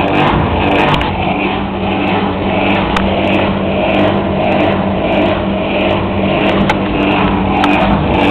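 Hoover vacuum cleaner running with a chugging, "chumping" noise: its motor note swells and fades in a steady rhythm, about once a second.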